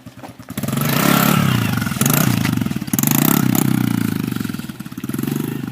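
110cc dirt bike's single-cylinder engine snapping from a low idle to hard throttle about half a second in, revving in several surges with the pitch climbing and dropping, then easing off near the end: the throttle being worked to lift the bike into a catwalk.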